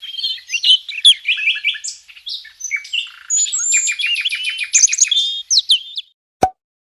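A songbird singing a fast, varied song of chirps, trills and quick rising and falling whistles, with a run of rapid repeated notes. The song stops about six seconds in and is followed by a single click.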